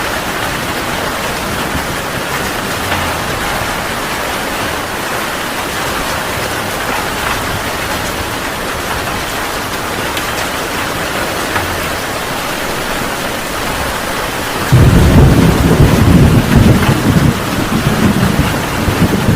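Steady heavy rain, then about three-quarters of the way in a sudden loud deep rumble of thunder that carries on, rolling, to the end.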